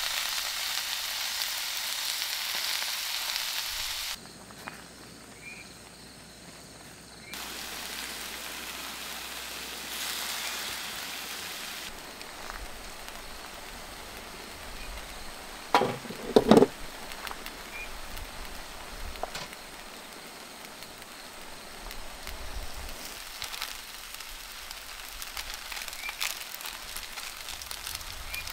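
Food sizzling as it is stir-fried on a griddle pan over a portable gas stove, the hiss loudest in the first few seconds. A couple of sharp knocks a little past halfway are the loudest sounds.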